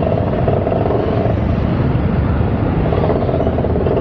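Yamaha YS250 motorcycle being ridden at a steady speed, its single-cylinder engine and the riding noise running steadily and loudly.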